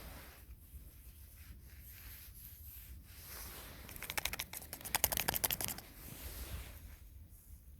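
Crisp hand-work sounds of winter garden work. Two bursts of quick clicking and crackling strokes, the louder one in the middle, with quieter scraping between them.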